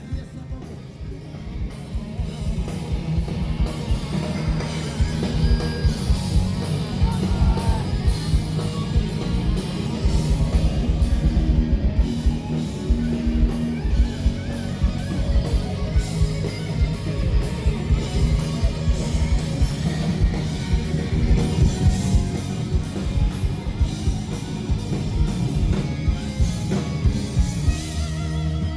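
Live band music in a rock style, with electric guitar over a drum kit keeping a steady beat.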